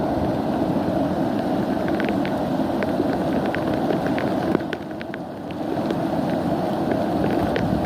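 Wind buffeting the microphone outdoors, a steady rumbling hiss that eases briefly about five seconds in, with faint short high chirps scattered through it.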